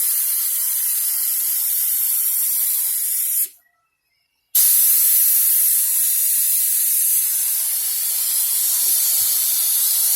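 Air-fed paint spray gun spraying thick primer through a small tip: a steady, loud hiss. It stops about three and a half seconds in and starts again a second later.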